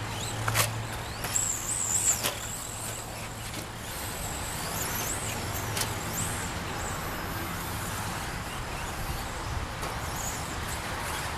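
Electric 1/10 2wd stadium trucks racing on a dirt track: high-pitched motor whines glide up and down as the trucks pass. Several sharp knocks, the loudest in the first two seconds or so.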